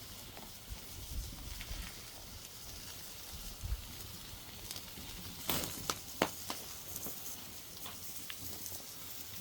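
Wood cooking fire crackling: a steady faint hiss with a cluster of sharp cracks about five and a half to six and a half seconds in.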